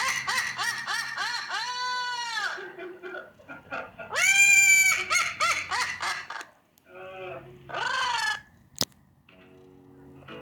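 A bird calling loudly: long arched squawks with a run of short, rapid squawks between them, the last calls about eight seconds in, then a single sharp click.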